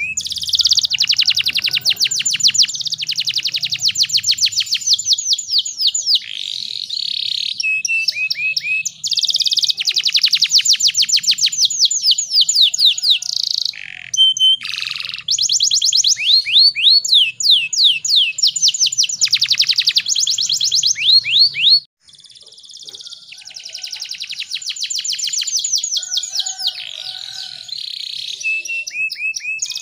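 Domestic canary singing in long, fast rolling trills made of rapidly repeated high notes, with short breaks between phrases.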